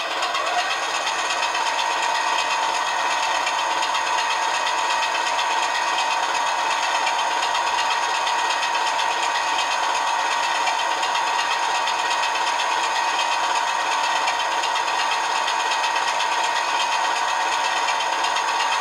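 Recorded Class 24 Sulzer diesel engine sound played by a model locomotive's DCC sound decoder through a small speaker, running steadily. A high whine comes in about a second and a half in and holds.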